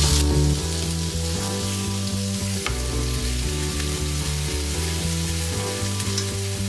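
Steady sizzling hiss of food frying in oil, under soft background music of low held notes that change about twice a second.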